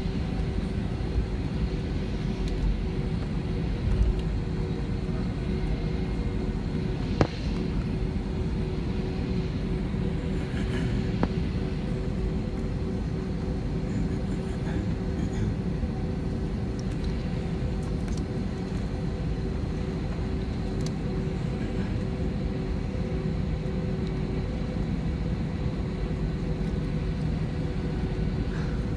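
Steady rumble of a jet airliner heard from inside the cabin in flight, with a low, even hum. Two short clicks come about seven and eleven seconds in.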